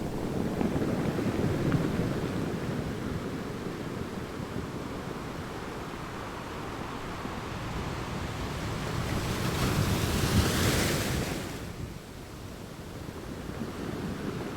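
Ocean surf washing steadily, with one larger wave building and breaking about ten seconds in, then falling away suddenly.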